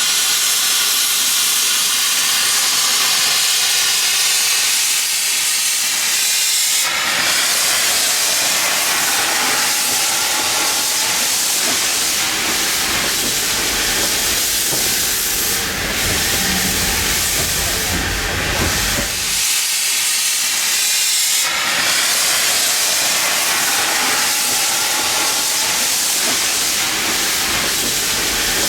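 Steam locomotive hissing with a loud, steady rush of escaping steam. A lower rumble joins about seven seconds in and drops away for a couple of seconds near twenty seconds.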